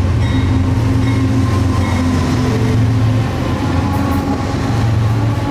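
Two CSX GE Evolution-series (GEVO) diesel locomotives pulling a mixed freight train close past, the diesel engines running under power with a loud, steady low drone and wheel noise on the rails.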